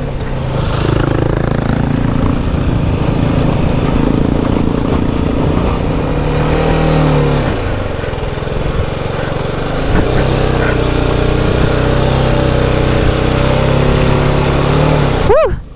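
Single-cylinder adventure motorcycle engine pulling in first gear on a rough dirt track. The revs climb and then drop away about halfway through, then hold steady again.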